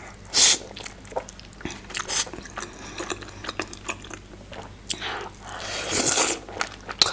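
Close-miked wet chewing and smacking of a large mouthful of juicy steamed momo dumpling, with many small mouth clicks. Two louder noisy bursts come about half a second in and again near the end.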